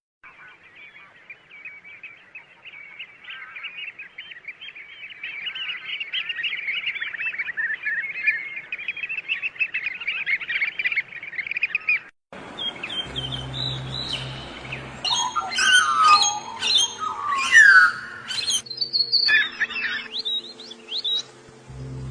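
Birds chirping in a dense, rapid run that grows louder. About twelve seconds in it cuts abruptly to louder, varied calls with sweeping notes, over a low steady hum.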